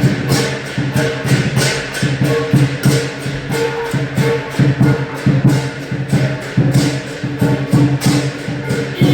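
Lion dance percussion: a big lion drum with clashing cymbals and gong, beating a fast, even rhythm of about four hits a second.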